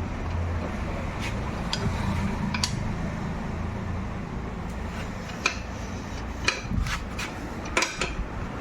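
Scattered light metallic clicks and clinks of tools and parts being handled on a motorcycle under dismantling, over a steady low hum. The clicks come more often in the second half.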